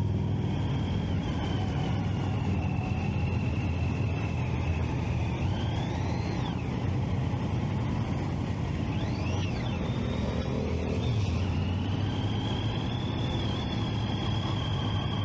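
Motorcycle riding at steady speed: the Triumph Street Triple 675's inline-three engine and wind make a steady low rumble. Over it a thin high tone wavers, with short rising-and-falling glides about six and nine seconds in.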